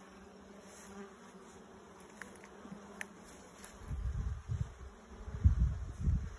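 Honeybees humming faintly and steadily around an open hive, with a couple of small clicks. From about four seconds in, loud irregular low rumbling on the microphone covers the hum.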